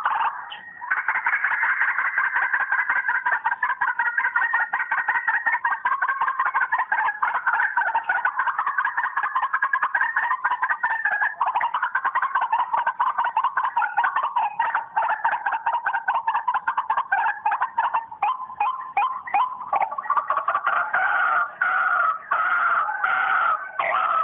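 White-breasted waterhen calls, a rapid, unbroken run of repeated calls that grows more broken up with short pauses near the end.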